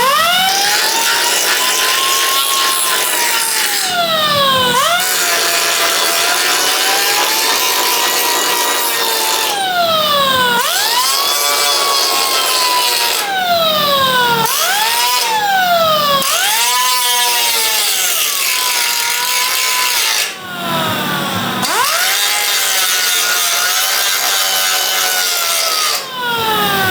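Angle grinder grinding down welds on sheet metal: its whine falls sharply in pitch each time it bites into the metal and climbs back as the load eases, over and over every few seconds.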